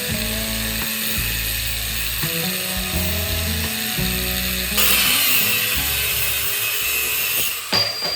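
A metal mechanism ratcheting and clicking, with a hiss that comes in about five seconds in and stops near the end.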